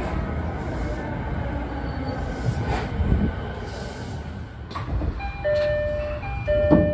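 Tokyo Waterfront Area Rapid Transit 70-000 series electric train running into the platform and slowing, a steady rumble of wheels and motors. About five seconds in, a chime of held electronic tones begins, changing pitch several times, with a sharp knock near the end.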